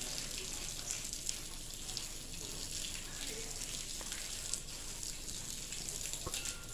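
Volcanic ash rain falling: a steady fine hiss with scattered light ticks of drops and grit landing.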